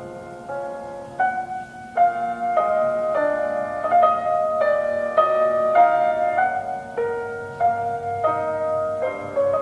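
Slow, tender piano music: chords and melody notes struck roughly every half second.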